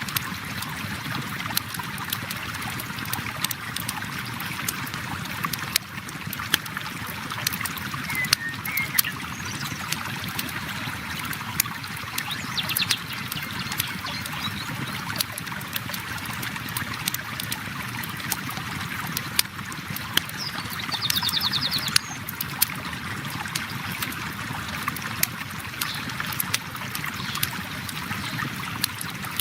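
A flowing river running steadily with a campfire crackling over it in frequent sharp pops, and a few brief high bird calls.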